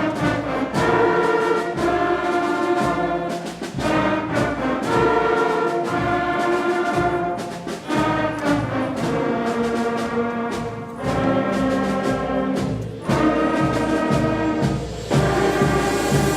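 Fifth-grade school concert band playing, led by brass, in held chords that change every second or two over a steady beat of drum strikes.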